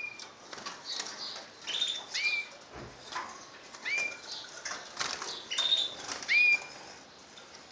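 Small caged birds calling with short chirps that rise and then hold, about four clear ones, over a scatter of light clicks and fluttering wings.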